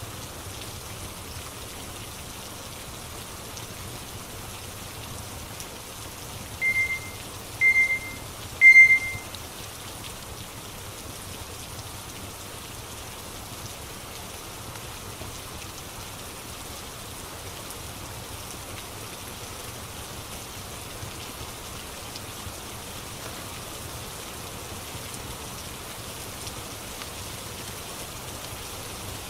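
Steady rain ambience, with three short high beeps about a second apart from about seven seconds in: a timer going off at the end of a 25-minute Pomodoro study session.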